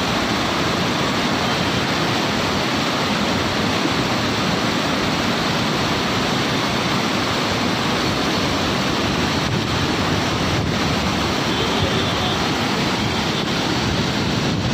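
Rushing water from a fast mountain stream, a steady, unbroken rush.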